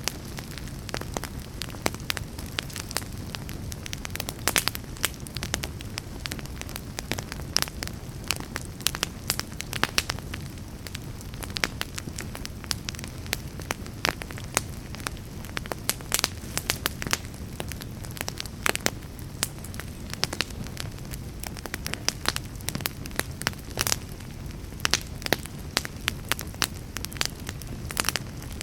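Fire crackling in a fireplace, with many sharp, irregular pops and snaps over a steady low rumble of burning.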